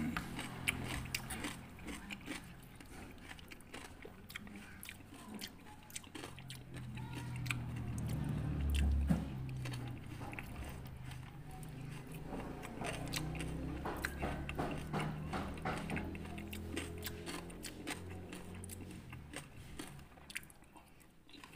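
Close-up chewing and crunching of fresh fruit rujak, with bites, mouth sounds and a spoon clinking and scraping in the bowl now and then.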